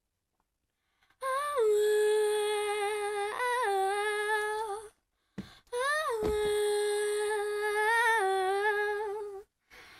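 A girl's unaccompanied voice humming two long held notes without words, starting about a second in; each note opens with a short slide in pitch and then holds steady.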